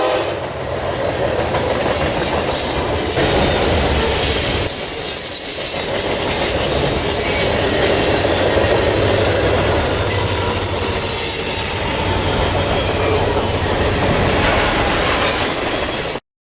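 A train rolling past close by with a steady low rumble and wheel-on-rail noise, thin high wheel squeals coming and going over it. The sound cuts off suddenly near the end.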